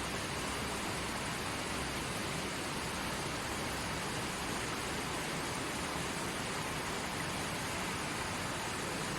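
Steady rush of a creek's water flowing over rocks, an even hiss with no pauses or changes.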